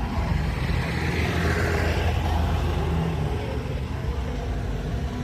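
Motor vehicle running with a steady low engine hum, and a swell of rushing noise that rises and fades about a second or two in.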